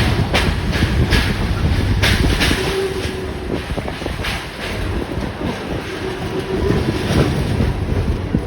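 A Kuranda Scenic Railway train running along the track, heard from aboard: a steady low rumble with irregular clacks of the wheels over the rail joints and a faint whine that comes and goes in the middle.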